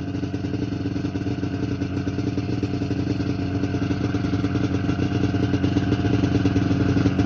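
1994 Yamaha VMAX 600 snowmobile's two-stroke engine running steadily at a fast idle while it warms up after a cold start from long storage. It grows slightly louder near the end.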